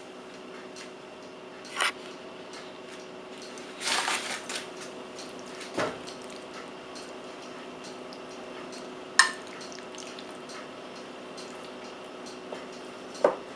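A spoon scooping thick chicken curry filling from a bowl onto pastry, with a few scattered clinks and scrapes of the spoon against the dish, over a steady low hum.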